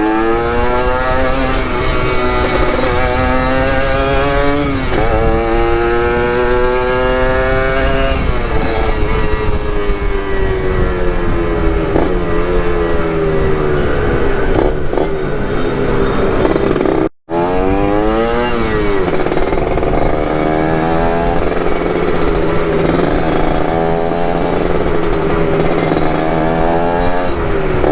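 Yamaha RX-King's ported single-cylinder two-stroke engine under way, revving up through the gears, its pitch climbing and then dropping at each shift. The sound cuts out for a moment about 17 seconds in.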